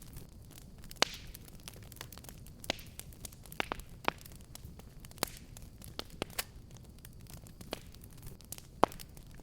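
Fire crackling in a fireplace: irregular sharp pops and snaps, the loudest about a second in and near the end, over a low, steady rumble of the flames.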